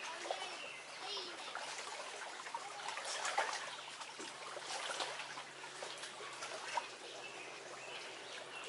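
Small birds chirping and singing in the background over a steady trickling, lapping sound of lake water along the shore.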